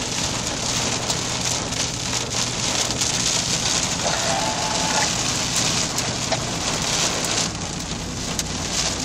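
Heavy rain pelting the roof and windshield of a moving car, heard from inside the cabin as a dense, steady hiss with many sharp individual hits, over a low hum of engine and road noise.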